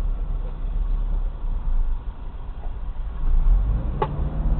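Car engine and road noise heard from inside the cabin, a steady low rumble, with the engine pulling harder about three and a half seconds in. A short sharp click comes near the end.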